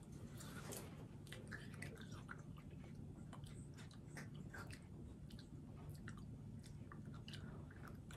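A person chewing melon, faint wet clicks and crunches over and over.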